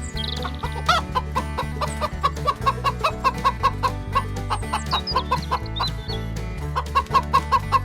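Chickens clucking in short quick clucks, about four a second, over background music with a steady bass line.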